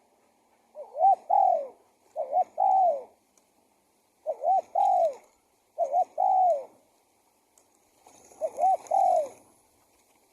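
Spotted dove (tekukur) cooing: five repeated phrases, each two short clipped notes followed by a longer note that falls away, with a pause of about a second between phrases and a longer pause near the end.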